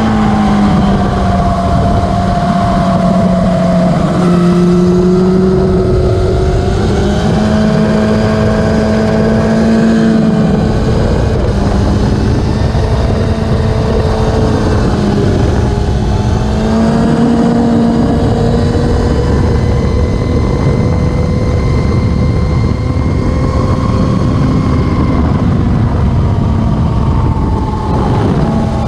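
Racing motorcycle engines running hard at high revs, the engine note steady and loud with its pitch rising and falling as the bikes change speed.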